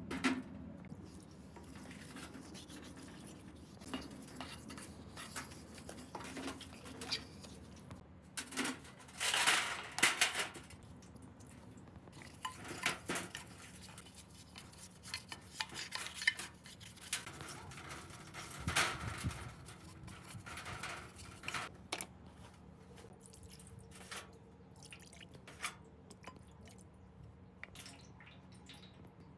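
Engine parts being handled and cleaned: scattered metal clinks and knocks, with short bursts of wet scrubbing or splashing about a third of the way in and again past halfway, over a faint steady hum.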